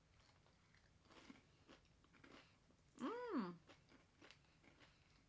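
Faint crunching of chips being chewed, with a few soft bites in the first half. About three seconds in comes a short hum from a person, rising and then falling in pitch.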